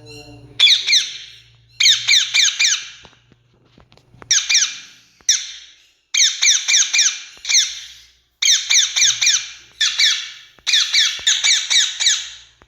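Rose-ringed (Indian ringneck) parakeet calling: repeated bouts of shrill, harsh squawks, each bout a quick run of four or five short notes a second that drop in pitch, separated by brief pauses.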